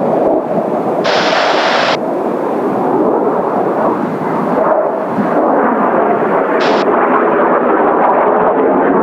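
Steady, loud roar of Blue Impulse's Kawasaki T-4 jets mixed with strong wind buffeting the microphone, with brief hissing bursts about a second in and again near seven seconds.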